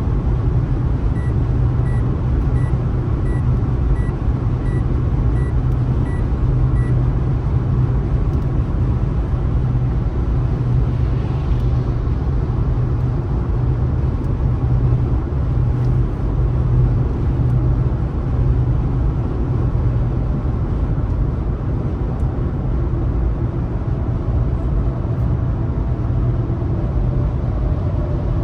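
Steady road and tyre rumble of a car driving. In the first seven seconds a short electronic beep repeats about nine times, roughly one every 0.7 s.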